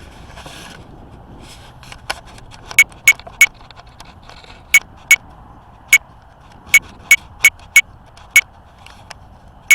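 A series of sharp, loud clicks, about a dozen at irregular intervals, each with a short bright ring, over a faint steady background.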